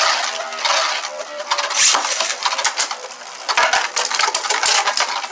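Beyblade spinning tops, a 3D-printed Onslaught and a Rage Longinus, whirring in a plastic stadium. A steady hiss of spin is broken by many rapid clicks and clashes as they strike each other and the stadium wall.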